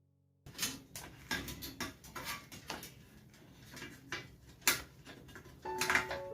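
Irregular clicks and knocks of hands handling the plastic and metal parts of an LCD monitor being taken apart, starting abruptly about half a second in. Background music with held notes comes in near the end.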